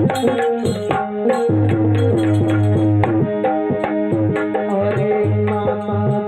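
Instrumental interlude of Indian devotional music: tabla playing a steady rhythm under a melody of held, stepping notes, with no singing.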